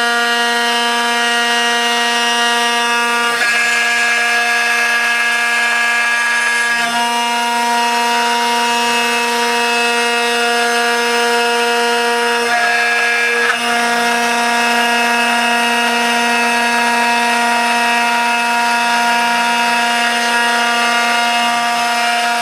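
CNC router spindle running with a steady, high-pitched whine as the bit cuts the outline of a neck blank made of laminated Western Australian Karri hardwood. The tone shifts briefly a few times as the cut changes.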